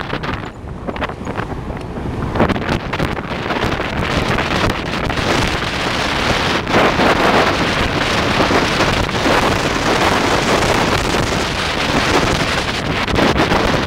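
Loud wind buffeting on the microphone, a dense rushing roar that swells and eases, dipping briefly near the start.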